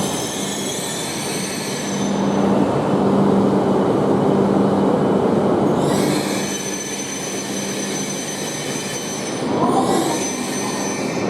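Tohoku Shinkansen train pulling in along the platform. Its steady electric hum and rolling noise carry high-pitched whines and wheel squeal that fade and return.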